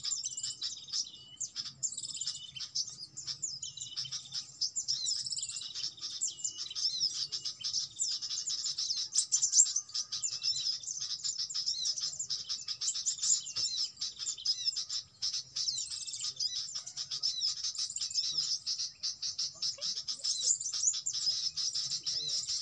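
Small birds chirping and twittering, a dense run of rapid high-pitched chirps and trills with many quick up-and-down pitch sweeps.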